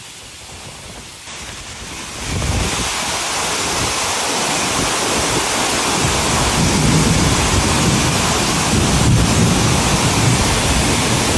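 Summer storm: heavy rain and strong wind, a dense, steady noise that swells sharply about two seconds in and stays loud, with wind rumbling low down.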